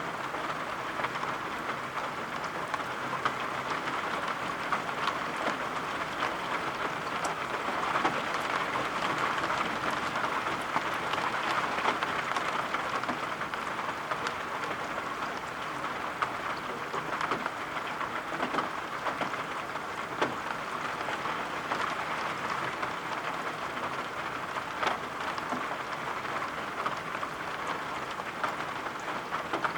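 Steady rain, an even hiss with many scattered sharp taps of single drops.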